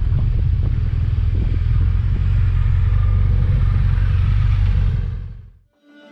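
Motorcycle riding noise from the 2018 BMW R 1200 GS Adventure's boxer-twin engine at road speed, mixed with wind rumble on the helmet-cam microphone. It fades out quickly a little after five seconds in.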